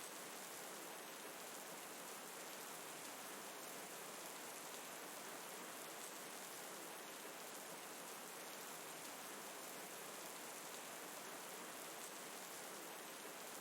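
Gentle rain falling steadily, an even soft hiss with no changes.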